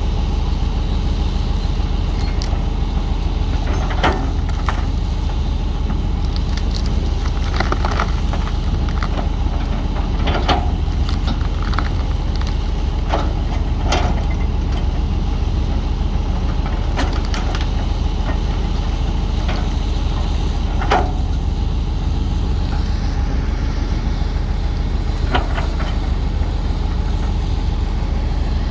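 Heavy diesel engine running steadily with a low, fast-pulsing drone, with several short knocks scattered through it.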